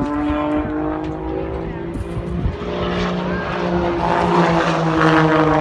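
Propeller aircraft engine droning during an aerobatic routine, its pitch slowly shifting up and down as the plane manoeuvres.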